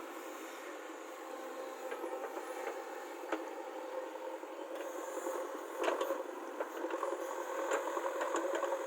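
JCB 3DX backhoe loader's diesel engine running steadily while the machine works, with a few sharp knocks about three, six and eight seconds in.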